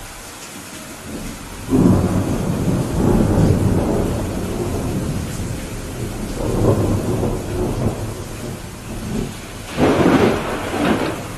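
Steady rain with rolling thunder. A loud low rumble breaks in about two seconds in and rolls on for several seconds, then a sharper, louder clap comes near the end.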